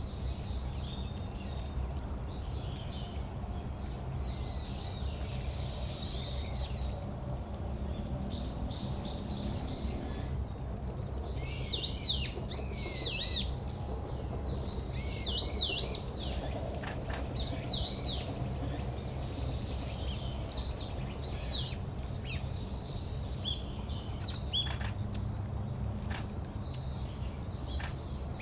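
Long-tailed tits calling: clusters of short, arching high notes, loudest about halfway through, over a steady high insect trill.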